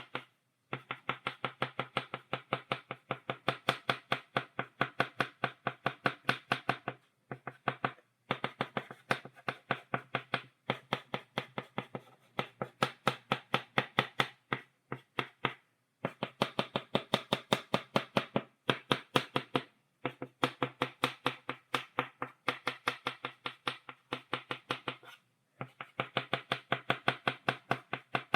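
Chalk tapped against a blackboard in rapid, even taps, several a second, stippling dots. The taps come in runs of a few seconds with short pauses between them.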